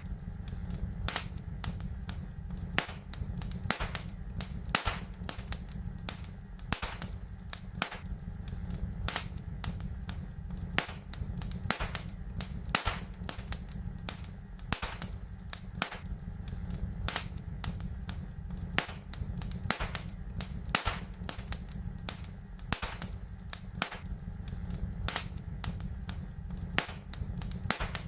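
Fireplace fire crackling, with frequent, irregular sharp pops and snaps over a steady low rumble.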